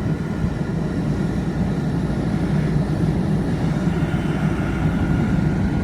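Vehicle engine running steadily, a constant low rumble with a faint steady hum above it.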